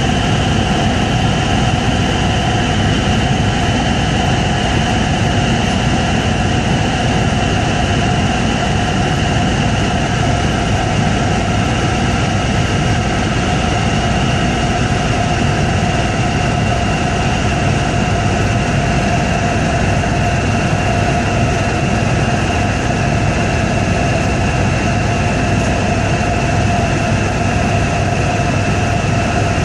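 Helicopter in flight: steady turbine whine over a low rotor rumble, unchanging throughout.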